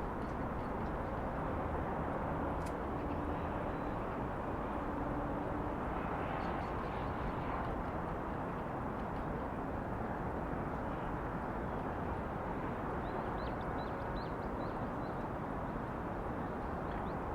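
Steady outdoor city ambience: a constant noise of distant traffic, with a single sharp click early on and a few faint short high chirps a little after the middle.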